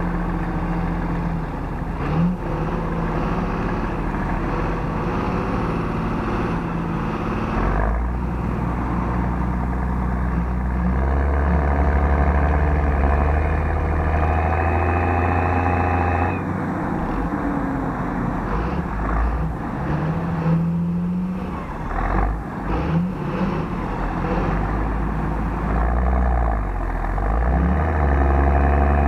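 Large tractor diesel engine running under changing load, its pitch rising and falling several times as it revs up and settles back.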